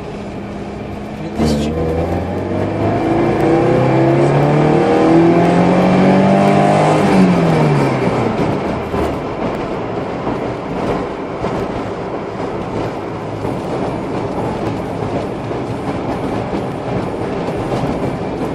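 Car engine under hard acceleration in second gear from about 2000 rpm. Its pitch climbs steadily for about six seconds, then drops quickly as the throttle is released, leaving steady engine and road noise.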